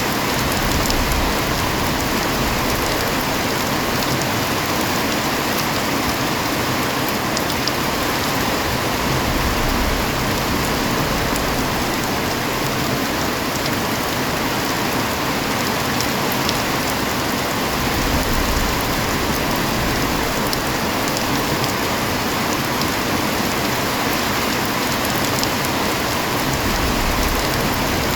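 Heavy rain falling steadily, with scattered sharp ticks of drops striking a surface.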